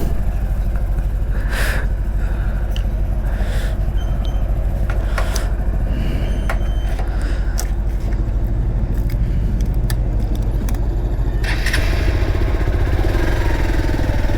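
Hero XPulse 200 motorcycle's single-cylinder engine running steadily, with scattered clicks and knocks. About eleven seconds in, a rushing hiss of wind and road noise comes in as the bike moves off.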